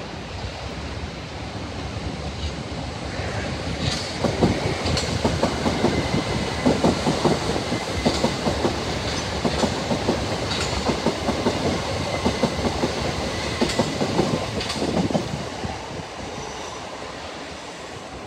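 A passenger train running past, its wheels clattering over rail joints in a fast clickety-clack with a faint high whine. It builds up about four seconds in and fades after about fifteen seconds as the train draws away.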